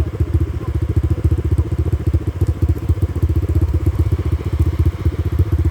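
Dirt bike's four-stroke engine running at idle with a steady, rapid beat. The riders put its rough running down to a misfiring spark plug.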